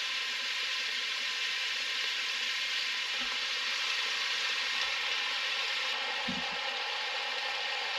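Food sizzling steadily as it sautés in the pot, with a few faint knocks partway through.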